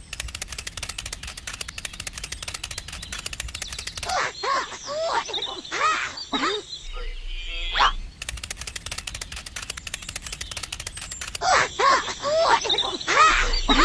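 Cartoon sound effects: a fast rattling run of clicks, then a string of high, squeaky chirps, with the pair heard twice.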